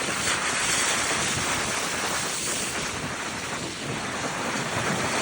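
Gale-force wind buffeting the microphone over Lake Superior surf breaking on a rocky shore: a dense, steady rush of noise.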